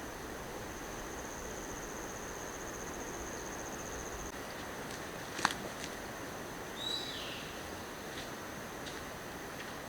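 An insect trilling steadily at a high pitch for about four seconds, then stopping, over a steady background hiss. A single sharp click comes a little past halfway, and a short falling chirp follows about a second and a half later.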